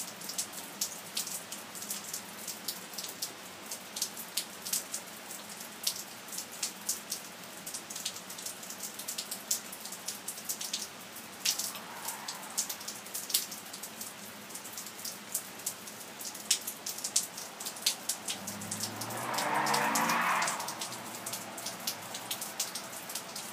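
Rain falling steadily with sharp drops pattering close by. About 19 seconds in, a car speeds along the wet road, its engine revving up in pitch for about two seconds.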